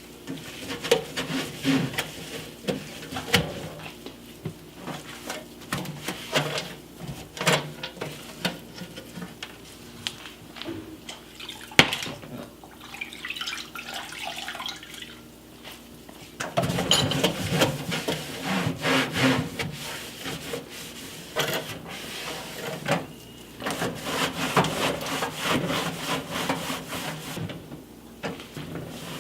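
Wiping and scrubbing the inside of a microwave oven: irregular rubbing and swishing with scattered knocks, one sharp knock about twelve seconds in, busier and louder in the second half.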